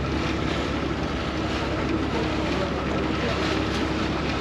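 Vaporetto water bus's engine running steadily with a low hum, mixed with the wash of water along the boat.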